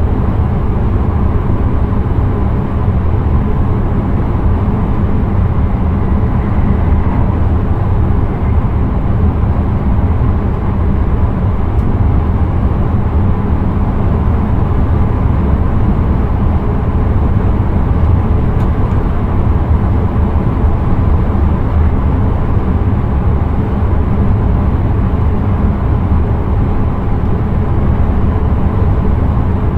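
Steady rumble of an intercity train running at speed, heard from inside the driver's cab: wheels on the rails and the train's running noise, unbroken and even.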